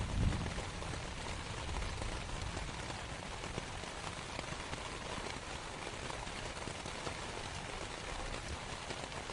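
Steady rain pattering on canvas, a fine even hiss of drops. Just after the start, the tail of a deep thunder rumble dies away.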